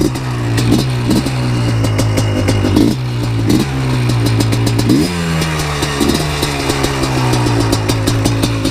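Yamaha Blaster 200's single-cylinder two-stroke engine idling just after being kick-started, with a crackly rapid firing. Small throttle blips come through, and about five seconds in the idle steps up in pitch, then slowly settles back down.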